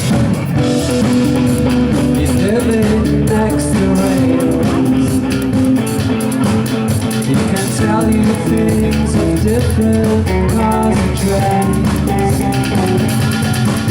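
Live rock band playing: electric guitar notes over bass guitar and a drum kit.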